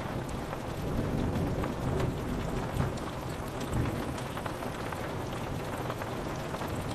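Steady rain pattering on window glass, with many small drop ticks. A low rumble of thunder swells and fades through the first half.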